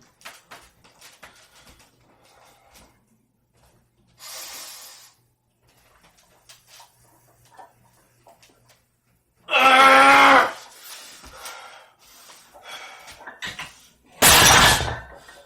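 A lifter's effort sounds during heavy barbell squats: a sharp breath about four seconds in, a loud strained yell lasting about a second near the middle, and a loud noisy burst near the end. Light clicks and knocks of gym equipment run throughout.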